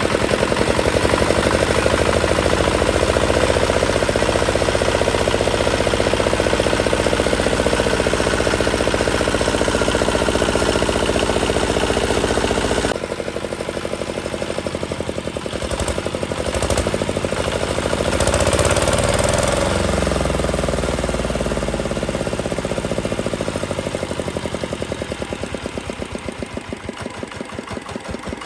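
Restored Chinese D8 diesel engine running with a fast, even chugging beat. About halfway through its sound suddenly drops and then picks up again. Near the end its beat slows and fades as the engine runs down.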